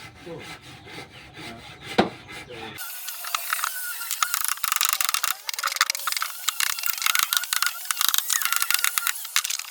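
A tool scraping and rasping on wood. It starts about three seconds in and keeps going in quick, irregular strokes, just after a single sharp knock.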